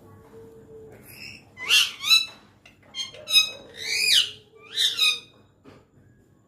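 Pet parrot calling: a string of about seven loud, harsh, pitched squawks, some bending up and down in pitch, after a faint steady hum in the first second.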